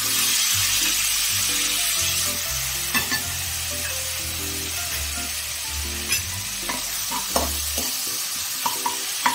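Garlic and sesame seeds frying in hot oil in a metal kadai, sizzling steadily as tomato sauce and soy sauce are added and stirred in with a spoon. A few light clicks of the spoon against the pan come through, around three and six seconds in and near the end.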